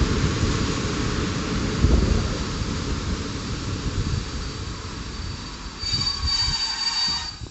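A train running past on the track: steady rumble of wheels and wagons with a low thump about two seconds in. A high, steady squeal from the wheels sets in near the end.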